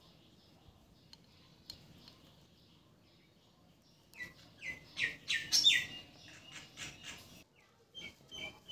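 A bird chirping: after a few faint clicks, a quick run of about six loud chirps, each sweeping down in pitch, then a few short, fainter notes near the end.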